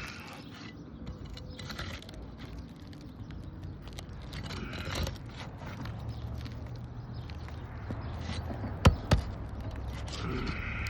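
Brittle asphalt roof shingles crackling and scraping as a damaged shingle is worked loose, with two sharp knocks about a third of a second apart near the end.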